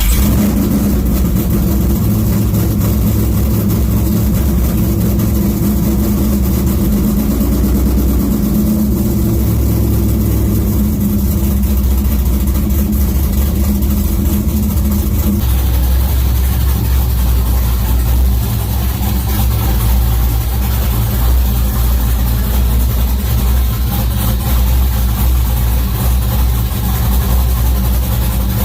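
A 5.3-litre V8 in a 1999 Pontiac Firebird idling fast just after a cold start. About halfway through, the idle drops and the exhaust note settles lower as the engine warms.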